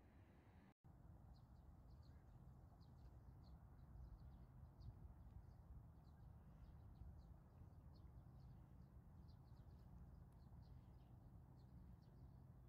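Faint small-bird chirping: many short, high chirps in quick, irregular succession over a steady low rumble.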